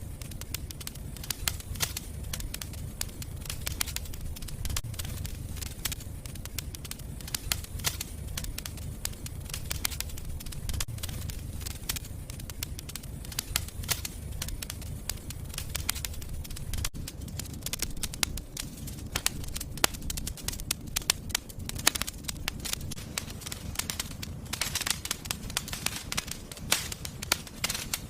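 Fire in a fireplace crackling, with many irregular sharp pops over a low steady rumble. The pops come thickest near the end.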